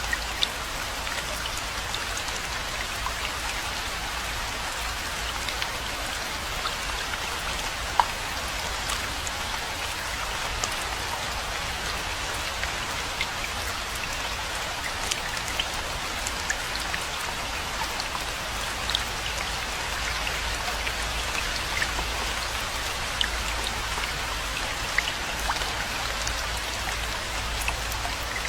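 Steady rainfall, an even hiss with many individual drops ticking sharply on top; one drop about eight seconds in is louder than the rest.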